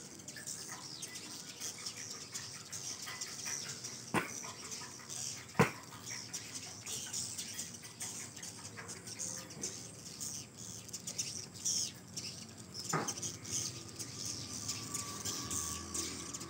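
Swiftlets' high chirping and twittering, dense and continuous, with three sharp clicks about four, five and a half and thirteen seconds in.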